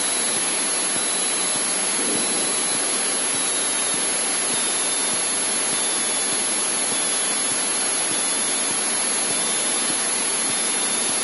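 Steady, even hiss like static on the Cessna 152's headset intercom audio. No engine tone or voice stands out of it.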